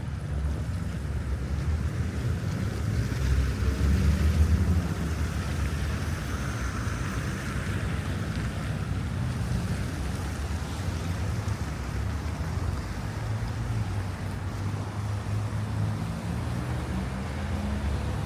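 Wind rumbling on the microphone over the noise of city street traffic, with a swell of road noise from a passing vehicle a few seconds in.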